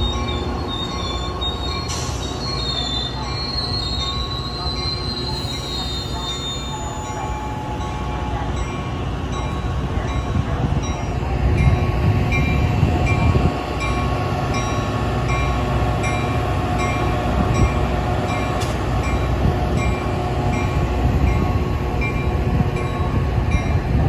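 Stainless-steel bilevel commuter rail cars rolling slowly past as the train comes in for a station stop. Their wheels squeal high and thin for the first several seconds, then the low rumble of the trucks on the rails grows heavier as the cars pass close.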